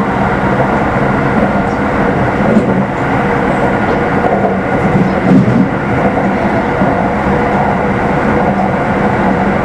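Keikyu New 1000 series electric train running at a steady pace, heard from inside the car: an even rumble of wheels on rail with a steady low hum.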